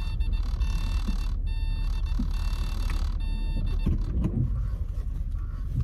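Car running, a steady low rumble heard from inside the cabin, with a few light knocks about four seconds in.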